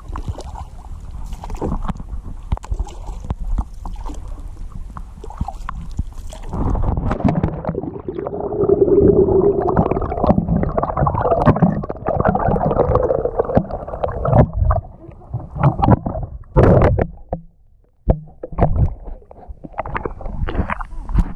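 Kayak paddling: water splashing and gurgling against the hull, with rumbling wind and handling noise on an action camera's microphone. The sound is uneven, with scattered knocks, and grows louder a few seconds in.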